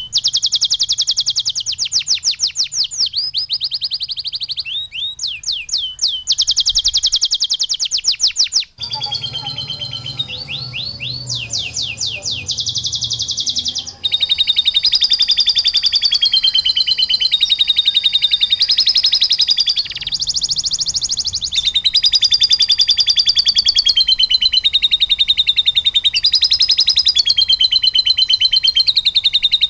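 Domestic canary singing long, rapid trills of fast-repeated high notes, mixed with lovebird calls as the fill of a bird-training song track. The song pattern changes abruptly about 9 and 14 seconds in.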